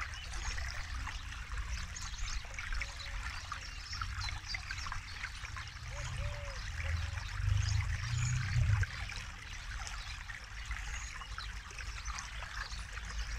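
Forest river flowing and trickling over stones, with a few short, low arched bird notes now and then. A low rumble swells about halfway through and drops off suddenly near the two-thirds mark.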